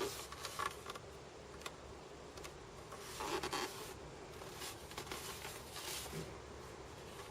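Faint rubbing, scraping and a few light knocks as the sections of a model helicopter fuselage are handled and moved, in short scattered bursts.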